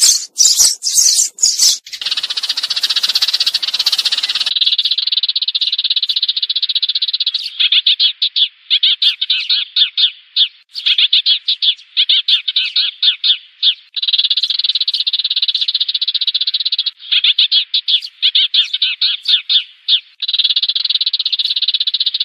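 Sparrows chattering: fast, dense chirps run together in bursts of a few seconds each, a sparrow lure call for drawing in a flock. The first couple of seconds hold sharp clicks, then a buzzy stretch before the chirping starts.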